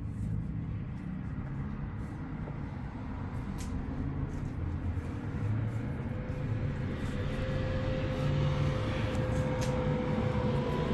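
Low rumble of a running motor vehicle or passing traffic, growing gradually louder, with a steady hum joining about halfway through and a few faint clicks.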